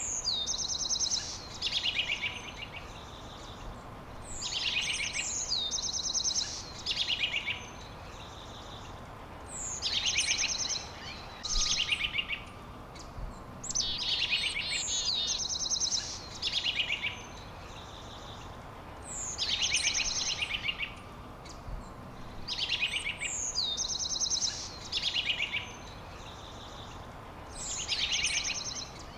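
A songbird singing the same short phrase over and over, about every four to five seconds: each phrase opens with a quick downward sweep and runs into rapid high trills. A steady low hiss lies underneath.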